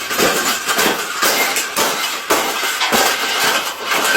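A cage being bent and folded by hand: continuous rattling and clattering with many irregular sharp knocks.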